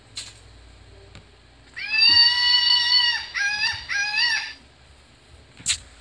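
Recorded peacock call played from an Audubon plush bird's sound box: one long wailing call, then two shorter calls that rise at the end. A sharp click comes just after the start and another near the end.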